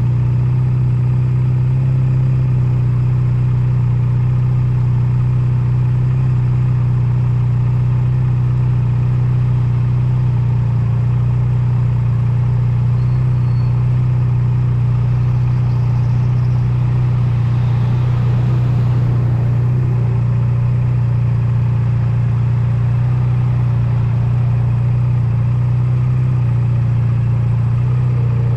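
Honda Nighthawk 250's air-cooled parallel-twin engine running at a steady pitch while riding, with wind and road noise. The noise swells briefly about two-thirds of the way through.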